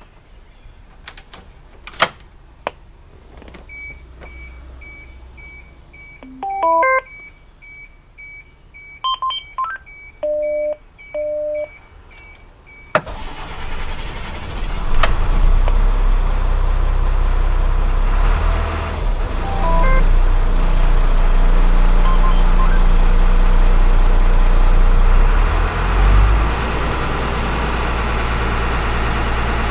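Dashboard warning beeps sound about twice a second with the key on. About 13 seconds in, the Caterpillar 3116 inline-six diesel cranks and fires on a cold start, then settles into a steady, loud idle.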